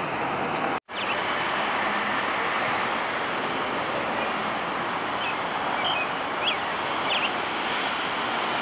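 Steady roar of a jet airliner's engines, broken by a brief dropout just under a second in. A few faint short chirps come later on.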